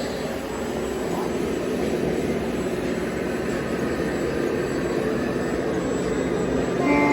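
Radio-controlled model trucks driving in convoy, their motors and gearing giving a steady mechanical whir. Near the end a short horn toot sounds.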